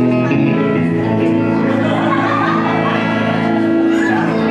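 A live bar band playing music, with sustained chords that change a couple of times.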